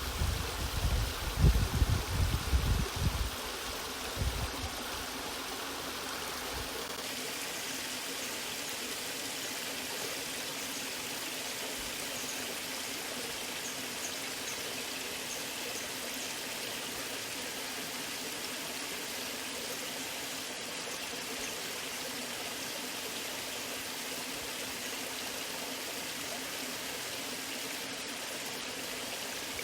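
Natural waterfall water rushing steadily, an even hiss. Heavy low rumbling buffets sit under it for the first three to four seconds, then stop, leaving the smooth flow.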